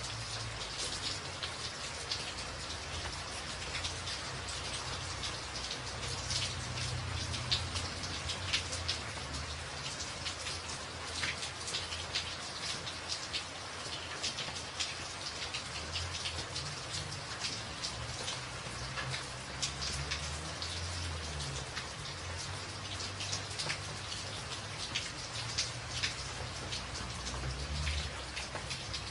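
Steady rain drumming on a tin roof: a dense hiss with many sharp individual drop hits. A low rumble swells and fades underneath several times.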